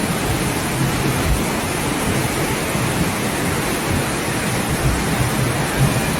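Steady, unbroken noise of heavy rushing water, even and loud throughout.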